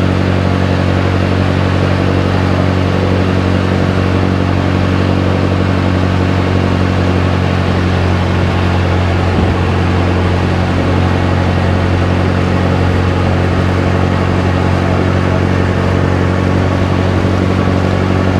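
Engine of a motorized outrigger canoe (bangka) running steadily under way: a loud, constant drone with no change in speed.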